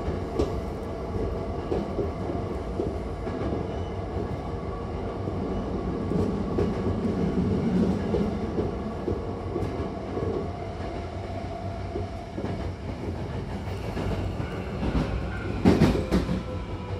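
Electric commuter train heard from inside the car: a steady running rumble of wheels on rail, with a short cluster of loud clacks over rail joints near the end. Over the last few seconds a motor whine slowly falls in pitch as the train slows into a station.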